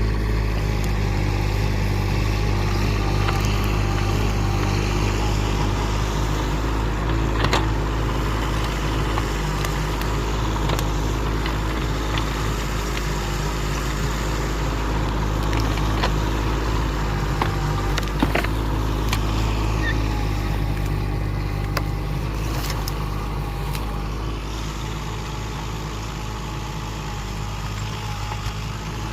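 Excavator's diesel engine running steadily, with a few sharp clanks and knocks over it.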